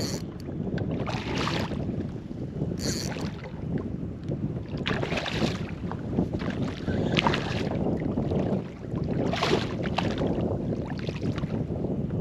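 Wind rumbling on the microphone over water lapping and splashing around a kayak, with short splashy bursts every second or two.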